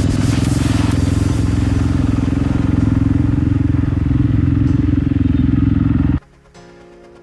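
Dirt bike engine running at steady revs, cutting off abruptly about six seconds in; quieter music follows.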